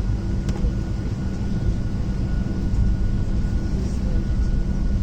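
Boeing 737-700 cabin noise heard from a seat near the front: a steady low hum with a thin steady whine over it.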